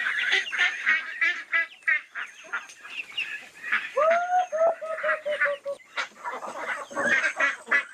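Poultry calling: many quick, high calls throughout. About four seconds in, a lower call rises and holds, then breaks into a rapid run of short notes.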